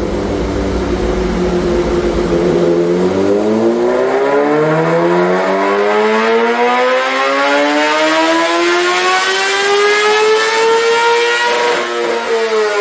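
A 2026 Kawasaki ZX-6R's inline-four engine on a dyno pull through its M4 exhaust with the baffle removed. It holds steady for about three seconds, then revs up in one long rising wail, touches the rev limiter near the end, and drops back down as the throttle is closed.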